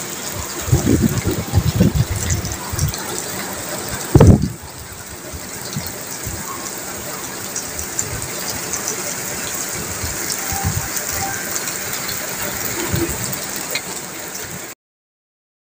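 Steady rain falling, an even hiss, with low rumbling bumps over the first few seconds and one loud thump about four seconds in. The sound cuts off suddenly near the end.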